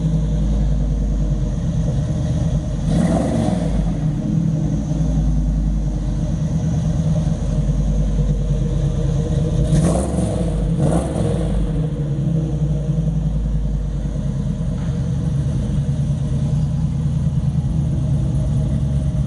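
A 1967 Camaro RS's 427 big-block V8 idling steadily through its exhaust, with brief rises in engine sound about three seconds in and twice around ten seconds.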